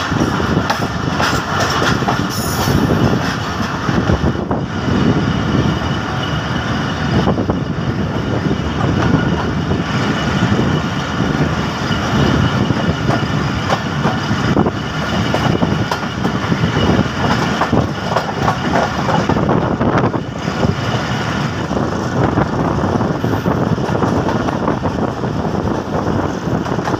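Passenger train coaches running along the track, heard from an open coach window: a steady, loud rumble and clatter of the wheels on the rails.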